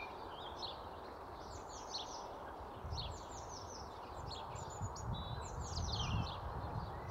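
Small songbird singing outdoors: short runs of quick falling chirps, repeated every second or so, over a steady hiss, with a low rumble swelling midway.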